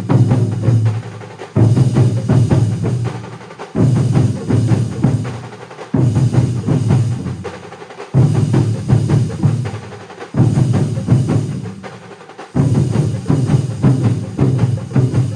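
A large ensemble of drums playing together in a repeating pattern. About every two seconds comes a heavy accented stroke, followed by a flurry of rapid strokes that dies away before the next accent.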